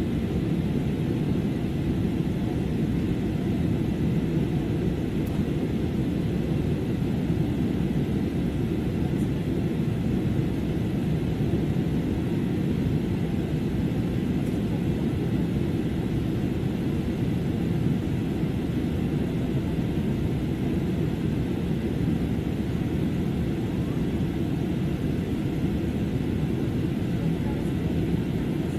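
Steady cabin noise inside a jet airliner in flight: an even, unbroken rumble of the engines and the air rushing past the fuselage, heaviest in the low range.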